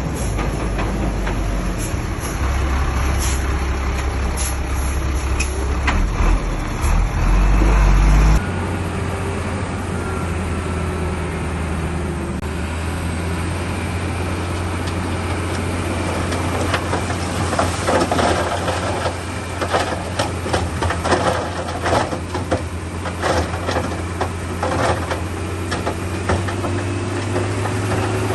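Heavy diesel engine of a crawler bulldozer running steadily under load. The tone changes abruptly about eight seconds in, and from about halfway a run of sharp knocks and clatter comes and goes.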